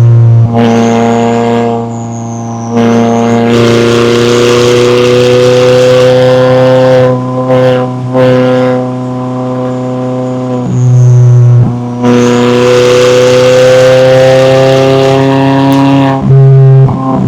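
McLaren 570S's twin-turbo V8 running under load, its note climbing slowly in pitch over several seconds at a time. It is broken by a few brief dips where the note drops away and picks up again.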